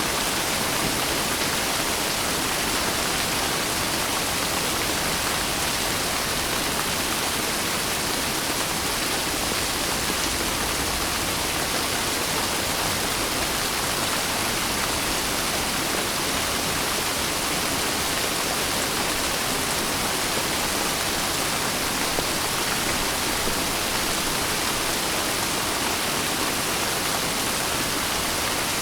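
Steady rain falling: a dense, even hiss that holds at the same level throughout.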